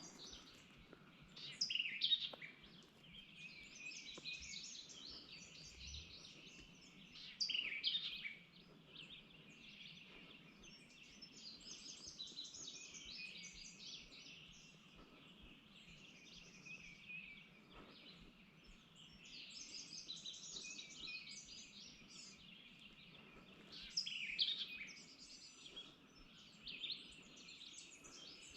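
Woodland songbirds singing and chirping together, with a few louder calls standing out about two seconds in, around eight seconds, and near the end.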